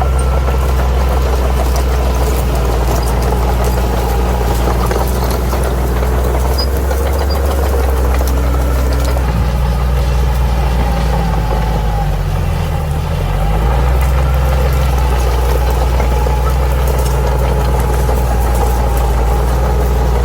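Bulldozer's diesel engine running steadily, with a brief drop in pitch and level about twelve seconds in before it picks back up.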